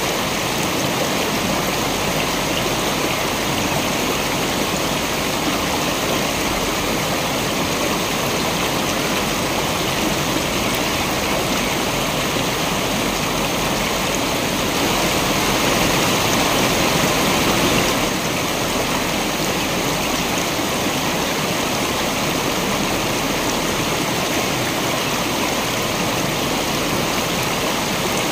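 Water rushing steadily over a waterfall into a stream, a continuous dense roar of splashing and flowing water. It swells slightly a little past the middle for a few seconds, then settles back.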